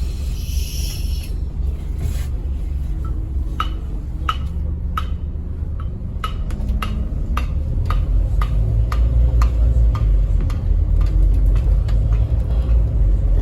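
Scania N270UD OmniCity bus's diesel engine running, heard from inside the bus, growing louder about two-thirds of the way in. Over it, from a few seconds in until near the end, comes an even ticking about one and a half times a second, typical of the bus's indicator relay.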